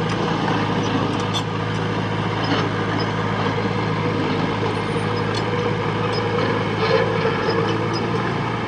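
Heavy diesel engine running steadily at an even speed, with scattered light clicks over it.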